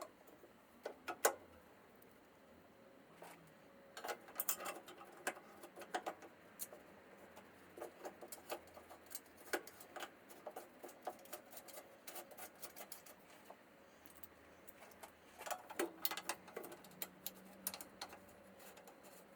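Metal parts and hand tools being handled during motorcycle front-fork assembly: scattered light clicks, taps and clinks at an irregular pace, bunched into a few short flurries.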